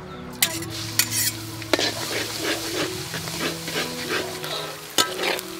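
Food sizzling in hot oil in a metal wok as a metal ladle stirs it. The sizzle starts sharply nearly two seconds in, and the ladle clinks sharply against the pan a few times.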